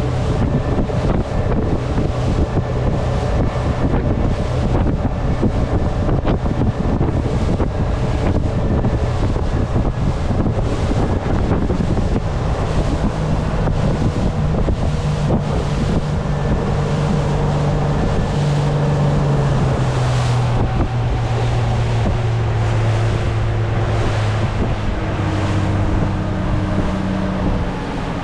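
Speedboat engine running under way, with heavy wind buffeting on the microphone and rushing water. In the second half the engine tone grows stronger and falls steadily in pitch as the boat slows.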